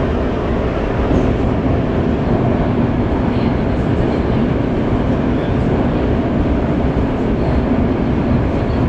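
Qingdao Metro Line 8 train running at speed through an undersea tunnel, heard from inside the car as a loud, steady rumble.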